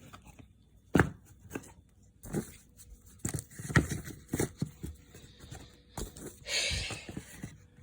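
Cardboard fireworks being handled and packed into a box: scattered knocks and taps as the tubes are set down, and a brief rustle near the end.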